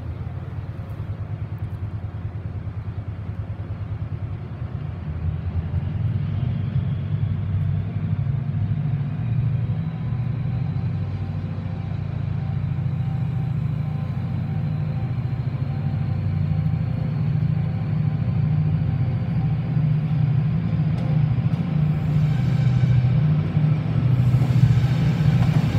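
TransPennine Express train pulling slowly into the station: a steady low rumble that grows louder as it nears, with a faint whine slowly rising in pitch.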